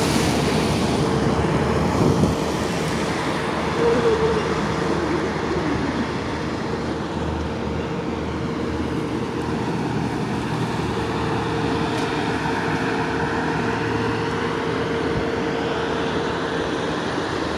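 Road traffic on a highway: a steady rush of tyres and engines that swells and eases as a truck and cars pass, with a steady hum running under it.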